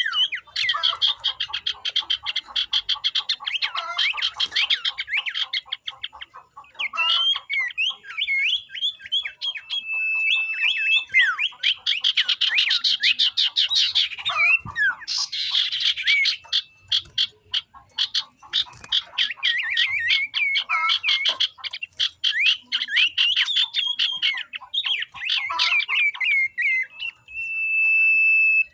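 A flock of young sirtu birds calling together, a dense run of rapid high chirps and trills with short gaps. A steady high whistled tone is held briefly about ten seconds in and again near the end.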